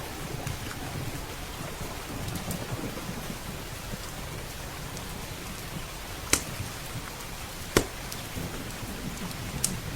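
Steady rain with a low rumble underneath, and crackling from a wood fire: faint scattered ticks and three sharp loud pops in the second half.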